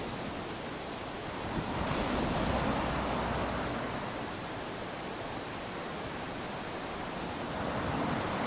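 Small waves lapping onto a sandy beach: a steady wash of surf that swells about two seconds in and again near the end.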